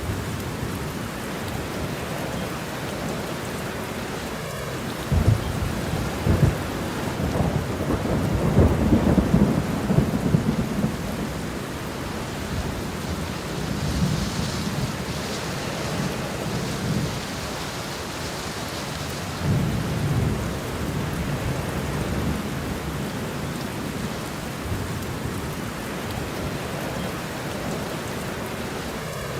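Steady rain with rolling thunder: low rumbles swell several times, the loudest a long roll about eight to ten seconds in, with weaker rolls later on.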